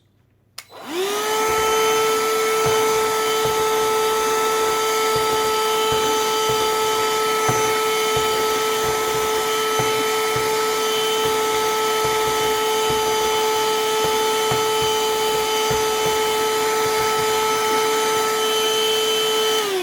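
Parkside PHSSA 20-Li A1 cordless handheld vacuum's brushed motor switched on about a second in, spinning up quickly to a steady high whine, then switched off near the end and winding down. Its suction is too weak to lift the screws it is held over.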